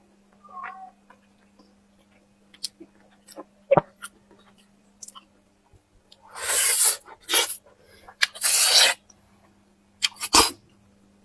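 Close-miked eating sounds: mouth clicks and smacks, with two longer hissing sucks of breath or food about six and eight seconds in and a sharp burst near the end.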